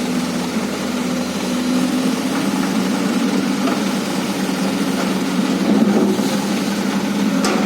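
Excavator's engine running steadily, its level swelling a little about six seconds in.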